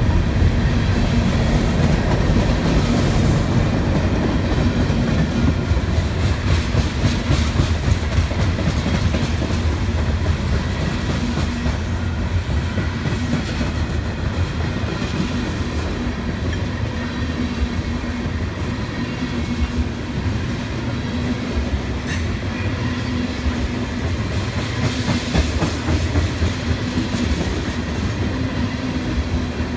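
Freight train's covered hoppers and tank cars rolling past, a steady rumble of steel wheels on rail with clicks as wheels cross rail joints.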